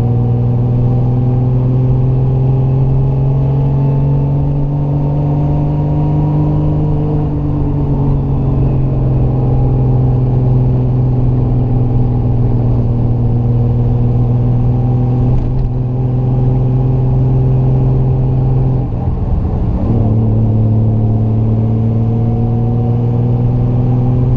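Triumph GT6 Mk2's 2-litre straight-six engine pulling uphill under load. The engine note rises slowly, eases about seven seconds in, then breaks off briefly near nineteen seconds in at a gear change and picks up again.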